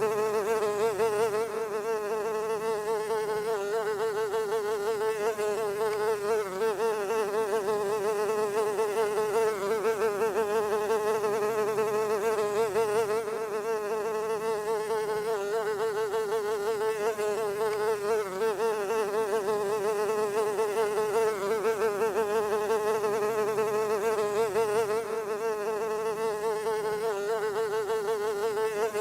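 A fly buzzing in flight, a continuous drone whose pitch wavers quickly up and down.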